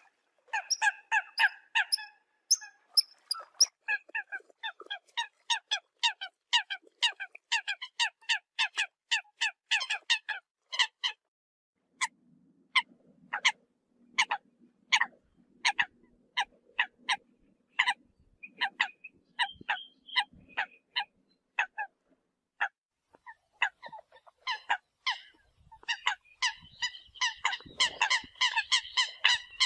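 Eurasian coot calls: a rapid run of short, sharp notes, several a second, broken by a couple of brief pauses.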